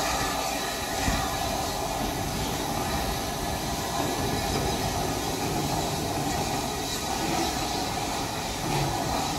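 Train running along the track: a steady rumble of wheels and carriages on the rails.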